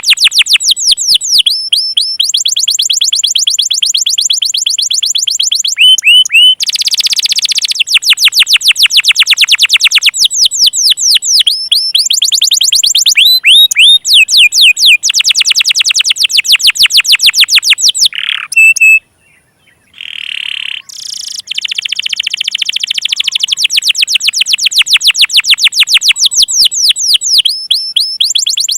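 Domestic canary singing: long rolls of rapid repeated notes, each a quick downward-sweeping whistle, switching to a new note type every few seconds, with a brief pause about two-thirds through. It is a lure song of the kind played to coax stuck or young canaries into singing.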